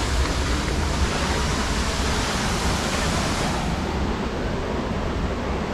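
Waterfall rushing, a loud steady roar of falling water, close by; the highest hiss dulls a little just over halfway through.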